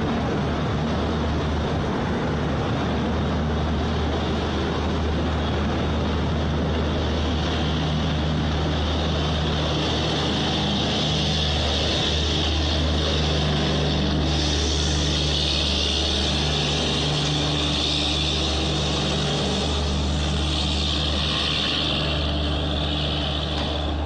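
Passenger train coaches passing close at speed: a steady rumble of wheels on rail with a low hum beneath. A hiss grows louder from about halfway through.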